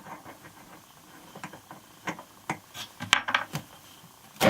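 Scattered clicks and knocks of hands opening a part of a boat engine's cooling system, such as unscrewing a cap or cover. They cluster about three seconds in, and a louder knock comes at the end.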